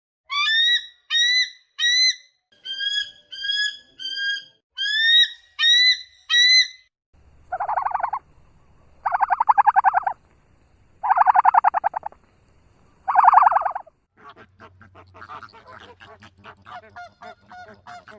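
Animal calls in three stretches. First comes a run of about a dozen short, rising, whistle-like calls. Next are four loud, buzzy, nasal honks about a second long, around 8, 9.5, 11.5 and 13.5 seconds in. Last come softer, rapid chattering pulses.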